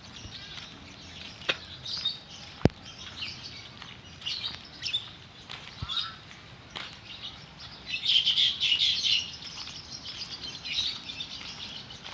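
Small birds chirping and twittering in quick, scattered calls, thickest about eight seconds in. Two sharp clicks come in the first three seconds, the second being the loudest sound.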